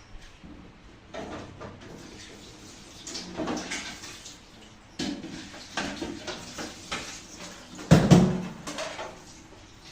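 Close-up eating sounds: wet chewing and smacking on pig's head meat, in irregular bursts, with one louder thump about eight seconds in.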